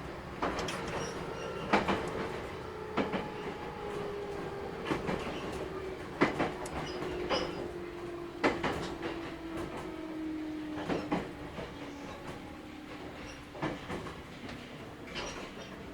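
Interior running sound of a JR Kyushu 811 series electric train: a motor whine slowly falling in pitch as the train slows, over rumbling running noise, with irregular sharp clicks of the wheels over rail joints.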